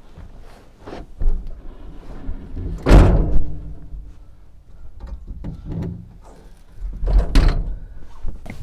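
A series of knocks and thumps of things being handled and set down, with the loudest two thumps about three seconds in and again about seven and a half seconds in.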